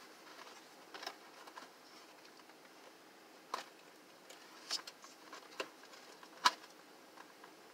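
Scattered small clicks and taps of heater parts being handled during reassembly, about five in all, the loudest about six and a half seconds in.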